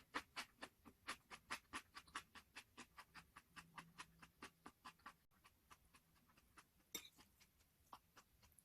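Close-up chewing of crispy dakgangjeong (glazed fried chicken): a quick run of crunches, about four a second, thinning out and getting fainter after about five seconds.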